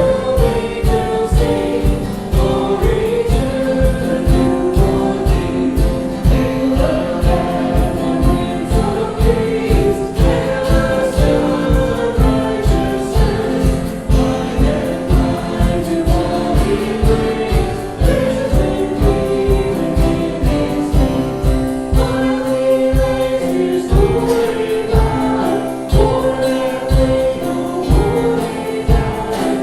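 Christian worship music: a choir singing over accompaniment with a steady beat.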